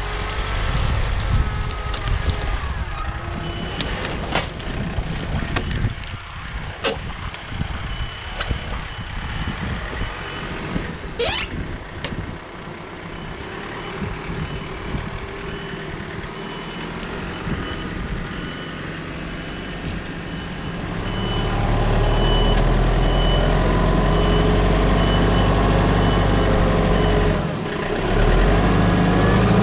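A heavy machine's reversing alarm beeps steadily over crackling and rustling. About twenty seconds in, an engine's low rumble rises and keeps running.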